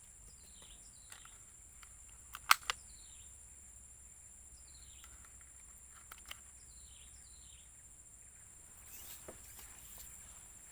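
Swamp ambience: a steady high insect drone, with a bird's short falling call repeated every second or so. A sharp click about two and a half seconds in.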